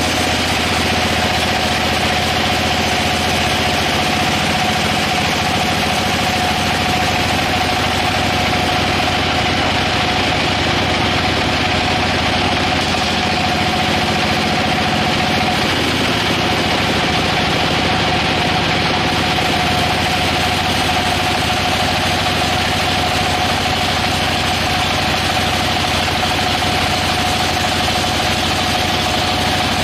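Sawmill machinery running steadily, with a steady whine over a broad mechanical noise.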